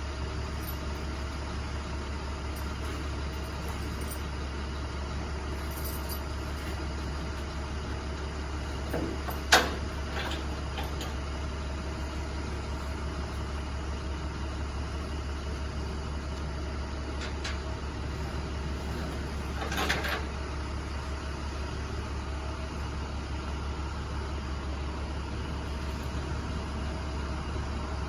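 Box truck engine idling with a steady low drone. There is one sharp bang about ten seconds in and a shorter clatter about twenty seconds in.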